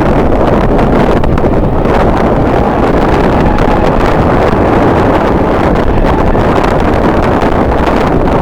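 Strong wind buffeting the microphone, a loud, steady, low rushing noise.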